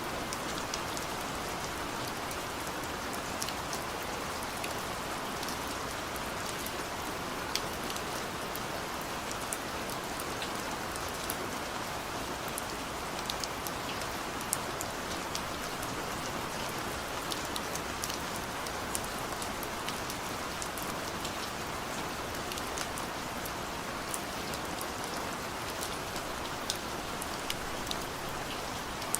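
Heavy rain falling steadily, with a constant hiss and many individual drops ticking sharply on nearby surfaces.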